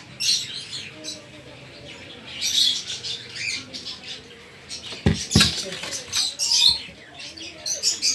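Lovebirds chirping and chattering in short, high-pitched bursts throughout, with two sharp knocks about five seconds in.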